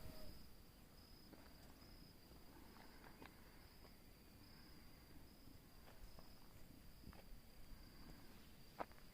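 Faint insect trilling outdoors: a steady high-pitched note that breaks up now and then, with a few soft ticks and one sharper click near the end.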